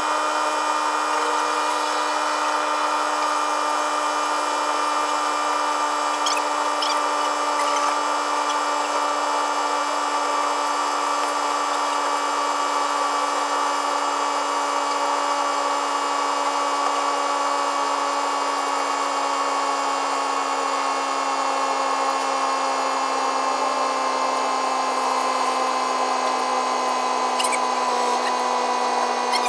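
A small electric power-tool motor, drill-like, running continuously as a steady whine whose pitch sinks very slowly.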